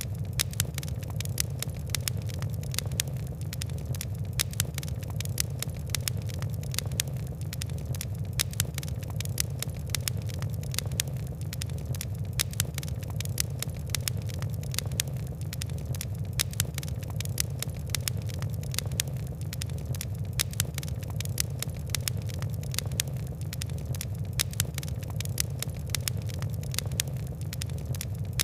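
Fire crackling: a dense, irregular run of small sharp snaps and ticks over a steady low rumble of burning.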